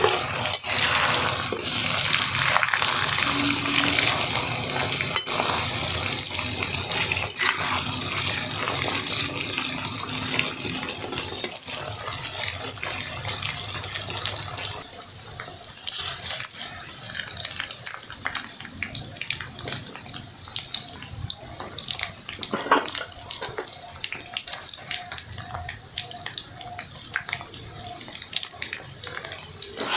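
Heavy rain pouring steadily, with a dense crackle through it; it softens about halfway through.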